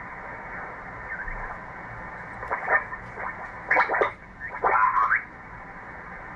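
Single-sideband receiver audio from an HF ham radio on the 20-metre band: steady band hiss with several short bursts of garbled, warbling voices sliding in pitch, from stations calling through the noise.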